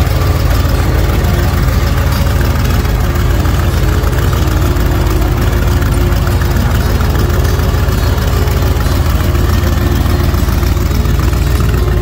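Car engine idling steadily with a deep, heavy low end.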